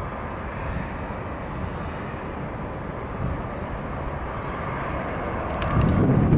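Airbus A320-232's IAE V2500 turbofan engines on approach to land: a steady rumble with a faint whine, growing louder near the end, with a few sharp clicks just before it ends.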